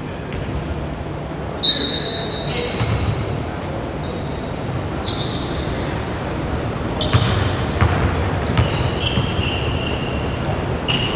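Basketball game play in a gym hall: the ball bouncing on the hardwood court with a few sharp thuds, and short high squeaks of sneakers on the floor, over the echoing background of the hall and some voices.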